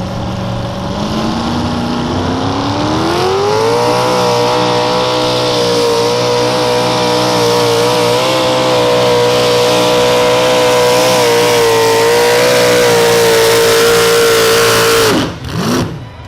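Mini modified pulling tractor's engine at full throttle on a pull. The revs climb over the first few seconds, hold high and steady for about eleven seconds, then drop off sharply near the end as the engine is shut down or throttled back.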